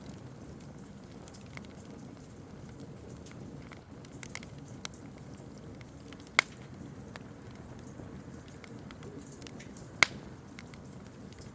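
Campfire burning with a steady low rumble and scattered crackles, with two sharp, loud pops, about six and ten seconds in.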